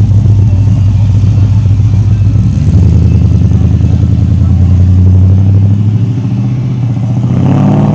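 Car engine running at low revs through a deep, pulsing exhaust. The note drops a little about two and a half seconds in and fades near the end as the car moves off.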